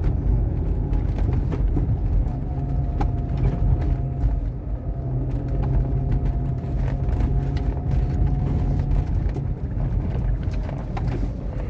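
Renault Mégane II Grand Tour driving along, a steady low rumble of road and running noise with a faint steady whine. The metallic knock of the loose right front shock absorber rod is not clearly heard.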